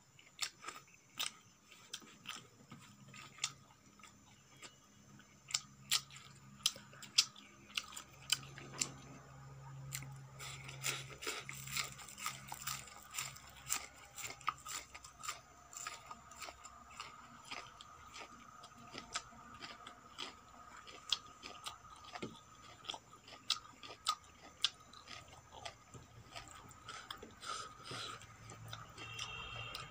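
Close-up mouth sounds of a person biting and chewing raw spring onion, with many irregular crisp crunches.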